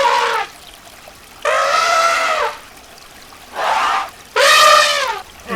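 An animal calling four times, each call loud, pitched and between half a second and a second long, with short pauses between.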